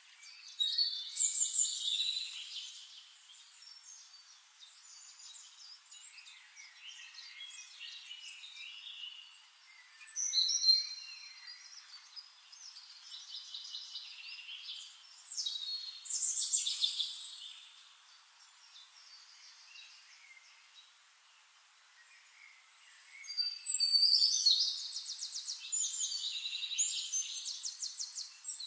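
Songbirds singing in separate bursts of chirps, whistles and trills, the longest a fast, rattling trill near the end.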